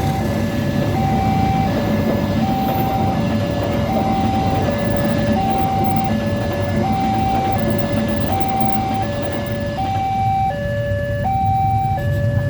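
Railway level-crossing warning alarm sounding: an electronic two-tone chime alternating a higher and a lower note, about one pair a second, over a steady low rumble.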